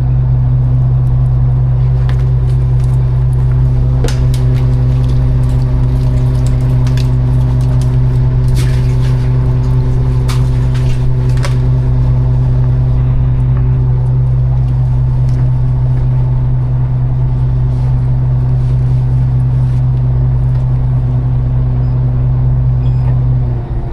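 Fishing boat's engine running with a steady low hum, with scattered knocks and clatter on deck during the first half.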